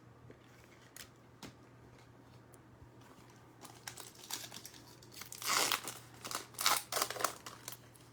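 A trading-card pack wrapper being torn open and crinkled. There are a few light clicks at first, then the crinkling grows from about halfway through and is loudest near the end.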